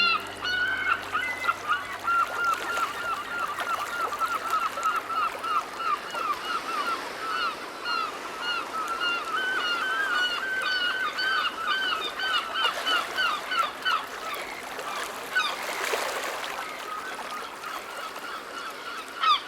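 A flock of birds calling: many short, honk-like calls overlapping, several a second, thinning out towards the end, with a brief rushing noise about sixteen seconds in.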